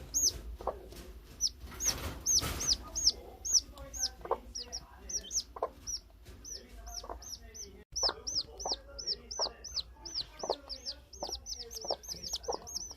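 Newly hatched chicks peeping steadily, high downward-sliding peeps about three a second, with the mother hen's low, short clucks in between. A brief rustle about two seconds in.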